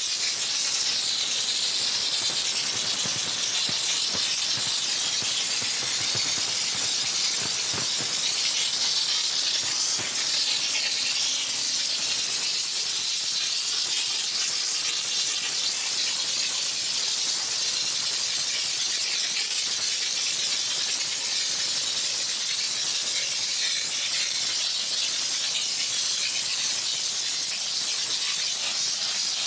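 Spray nozzle of a 20-bar LPG-fired steam car wash machine jetting pressurised steam: a steady, even hiss that does not let up.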